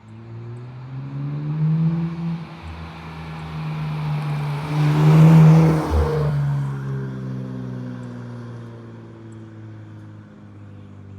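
2024 Nissan Z's twin-turbo 3.0 L V6 running through a Rae-motorsports axle-back exhaust as the car drives past. The exhaust note builds to its loudest about five seconds in, then fades away.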